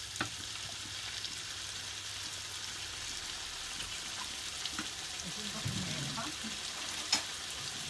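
Onion, tomato and peppers sizzling in hot oil in a frying pan, a steady crackling hiss, with two sharp clicks, one just after the start and one near the end.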